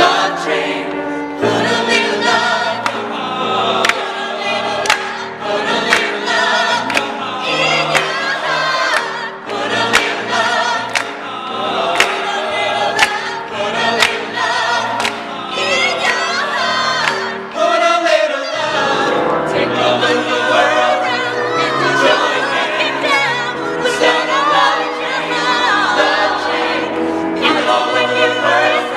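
A choir singing with accompaniment over a steady beat.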